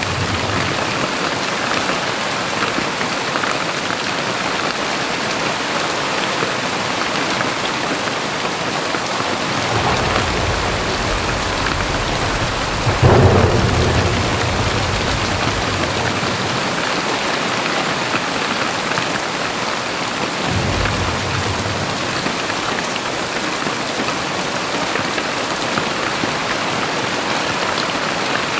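Very heavy rain pouring down steadily, with low rolls of thunder: one about a third of the way in, a louder, sharper clap a few seconds later that is the loudest moment, and a softer roll about two thirds of the way through.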